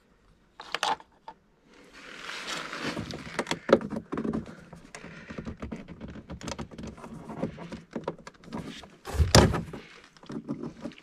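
Hands working on a car's small plastic lamp fitting: a string of light clicks and knocks with some rustling, and one louder thump about nine seconds in.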